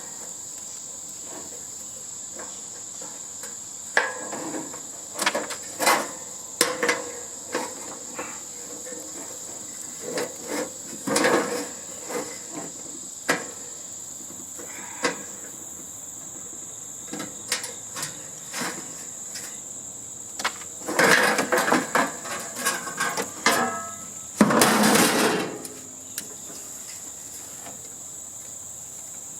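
Irregular metal clanks, knocks and rattles of tools and parts while a hotel heating and air-conditioning unit is taken apart for scrap. A louder, longer rattling burst comes about 25 seconds in. A steady high-pitched whine runs underneath.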